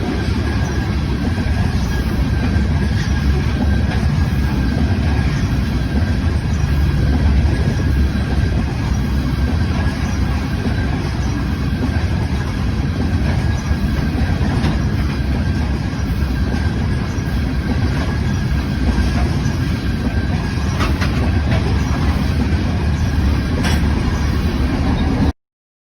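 Train cars rolling past: a steady rumble with faint wheel clicks over the rail joints and a thin steady high whine. It cuts off suddenly near the end.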